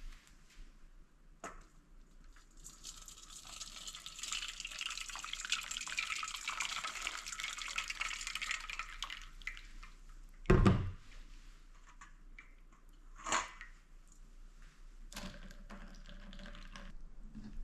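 Water running or pouring into a sink for several seconds. It is followed by a loud, dull knock about ten seconds in and a sharper knock a few seconds later.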